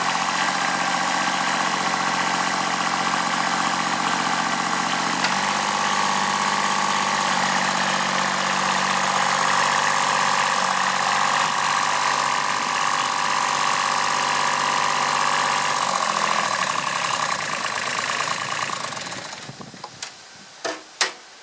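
Kubota B7001 tractor's D850 three-cylinder diesel running steadily, its engine speed shifting about five seconds in and again near the end. The engine sound then falls away, followed by a few sharp clicks.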